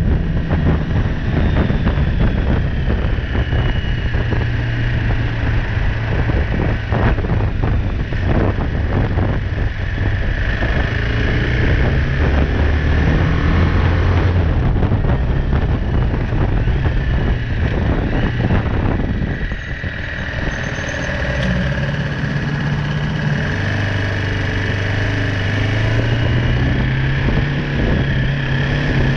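BMW G310R's single-cylinder engine running under way, its pitch stepping up and down several times as the rider changes speed and gear, with a brief easing off about two-thirds of the way through.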